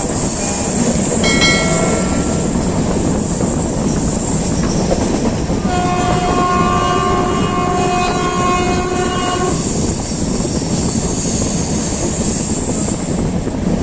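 Train running with a steady rumble of wheels on the rails. A train horn gives a short toot about a second in, then a long steady blast of about four seconds in the middle.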